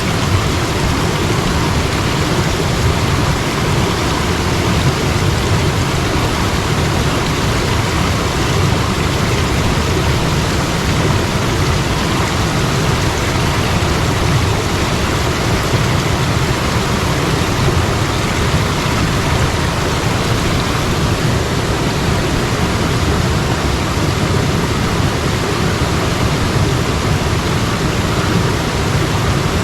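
Mountain stream water rushing, a loud, even hiss that stays steady throughout.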